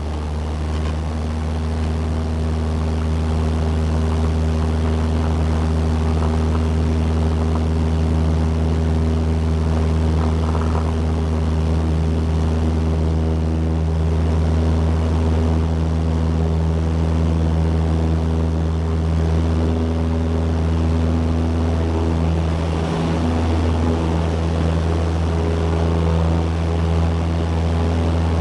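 Small propeller airplane's engine and propeller at takeoff power, a steady drone that builds over the first few seconds and then holds.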